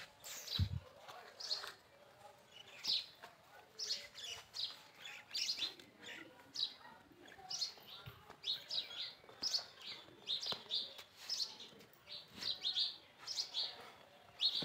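Small birds chirping repeatedly, short high chirps that fall in pitch, one or two a second. A low thump just after the start.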